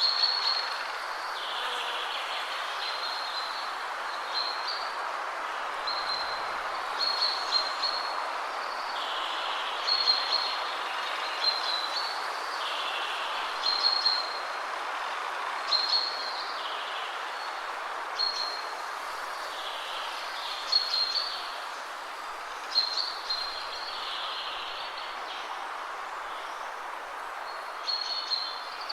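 Steady wind rushing through trees, with a songbird repeating a short high song phrase about every two seconds.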